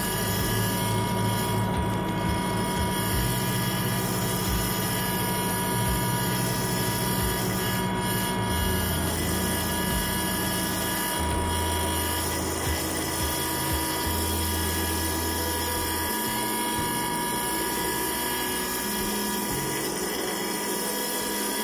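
Mahindra 2638 compact tractor's diesel engine running steadily under load, driving its snowblower, with a steady whine over the engine hum; the low engine note shifts a little partway through.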